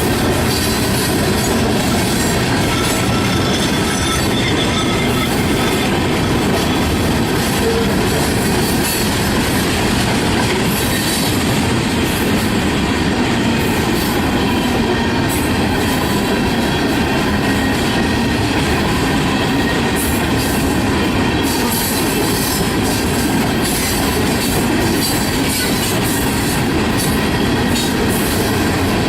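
Freight train rolling past at close range: a steady, loud run of wheel-on-rail noise with clickety-clack over the rail joints and a thin, high wheel squeal over it.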